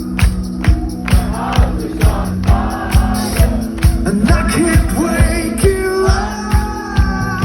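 Live band music with a steady drum beat of about two thumps a second, sustained instrument tones and singing without clear words.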